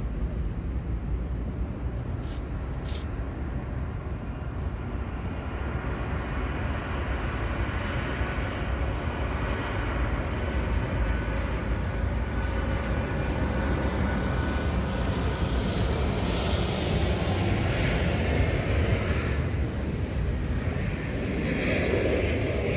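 Airplane flying over, its engine noise building gradually and loudest in the second half, with a faint steady whine in it.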